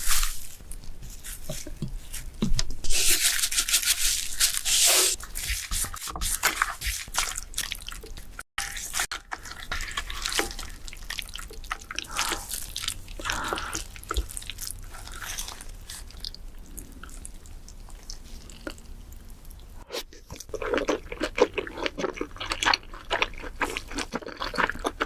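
Someone eating king crab close to the microphone: wet, crunchy chewing and biting with irregular crackles and clicks. There is a louder wet stretch about three seconds in, and faster chewing near the end.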